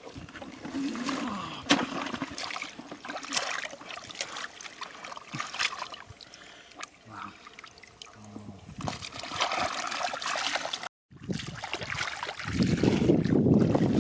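Shallow water splashing and trickling, with many small sharp splashes. There is a brief dropout about eleven seconds in, and a louder steady rushing noise near the end.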